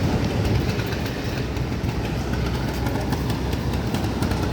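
Passenger train running: a steady low rumble with faint rattling clicks.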